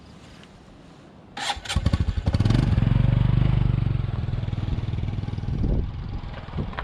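A motorcycle engine starting: a couple of clicks about a second and a half in, then the engine catches, revs briefly and settles into a steady idle.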